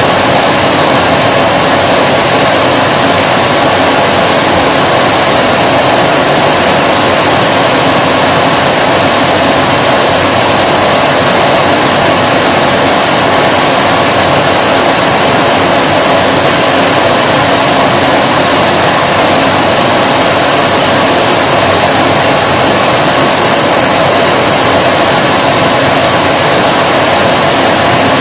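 Vacuum cleaner running continuously: a loud, steady hum of motor and rushing air that holds the same pitch and level throughout.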